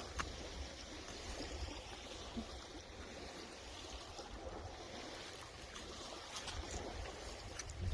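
Steady wash of sea water along the shore, with wind rumbling on the microphone.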